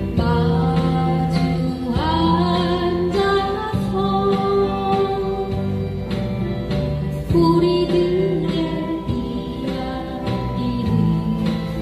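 Live acoustic guitar band music: guitars strumming chords while a lead line of long held notes slides into each note, with no sung words.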